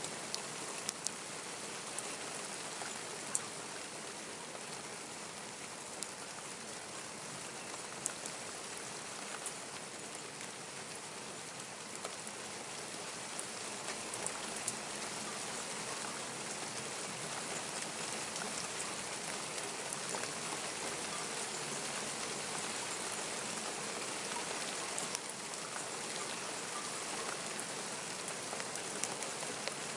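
Steady rain falling, with the sharp ticks of individual drops striking close by.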